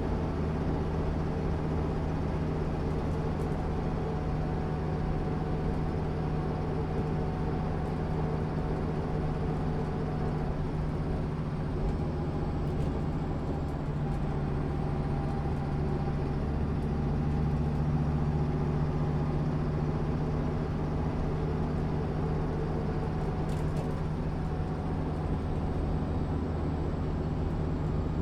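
Diesel engine of a 1996 MAN SÜ 272 NCT bus running steadily, its note and loudness swelling slightly about two-thirds of the way through.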